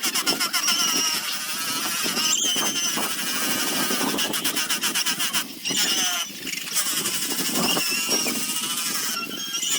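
Motor-driven sander working a zelkova wood basket: a steady motor sound with wavering high-pitched squeals as the abrasive rides over the wood, dipping briefly twice about two-thirds of the way through.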